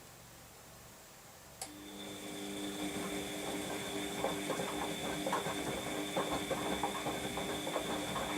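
Washing machine motor starting with a click about a second and a half in and turning the drum during the wash phase: a steady motor whine that grows louder, with the tumbling load making many quick clicks and knocks.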